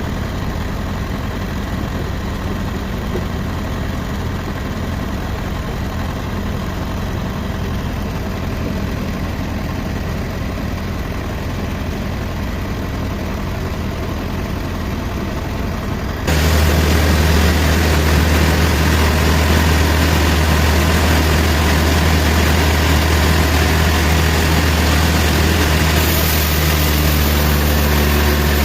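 A heavy engine running steadily. About sixteen seconds in the sound jumps abruptly louder, with a stronger low hum.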